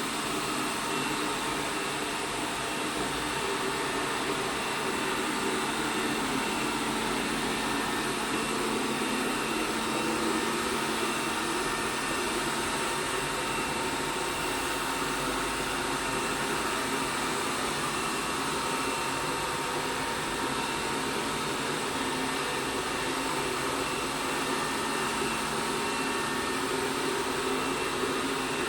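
ELARI SmartBot Lite SBT-002A robot vacuum running, a steady whir of its suction fan and brushes with a faint steady hum.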